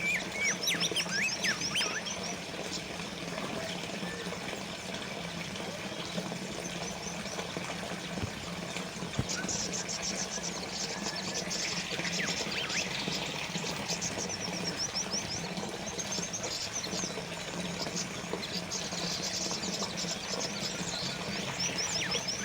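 Water trickling steadily from a small fountain, with small birds chirping over it; runs of rapid high trills and quick falling chirps come near the start, around the middle and again near the end.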